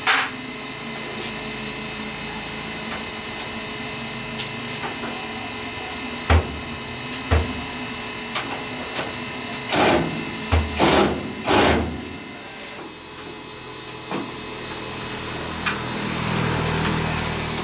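A steady mechanical hum, with single sharp metal knocks about six and seven seconds in and a quick run of louder clanks about ten to twelve seconds in.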